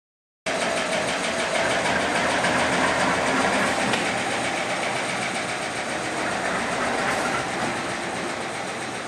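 GE U23B diesel locomotive running, its 12-cylinder FDL prime mover giving a steady engine sound that cuts in suddenly about half a second in.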